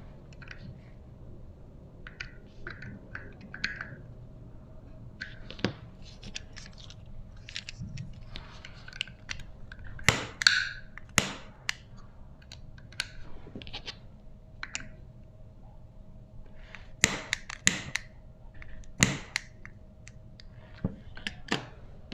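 Irregular clicks and knocks of small parts being handled, a few sharper clacks standing out, over a faint steady hum.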